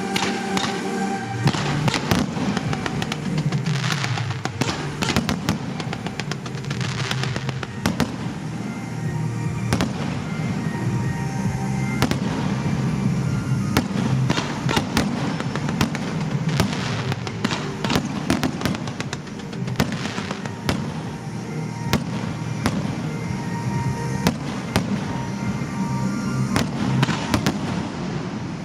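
Fireworks display going off to music: a dense run of sharp bangs and crackling reports, with the show's music playing underneath.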